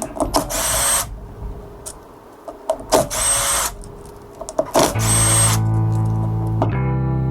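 Power drill running in three short bursts of under a second each, a couple of seconds apart, each with a high whine. Music with held chords comes in after the last burst.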